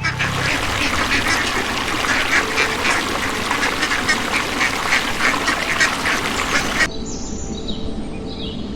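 A flock of ducks quacking, many short calls overlapping in a dense, loud chorus that cuts off abruptly about seven seconds in. After that, birds chirp faintly over music.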